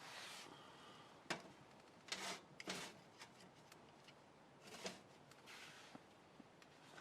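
Near silence with a few faint, short rustles and light clicks scattered through it.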